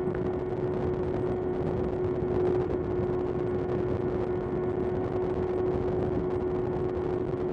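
Kawasaki ZX-6R's 636 cc inline-four running at a steady engine speed while cruising, one unchanging engine note over wind and road rush.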